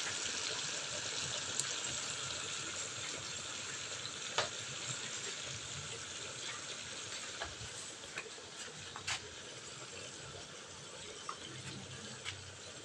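Tuna steaks sizzling in oil in a frying pan: a steady hiss with scattered sharp pops and crackles, slowly growing fainter.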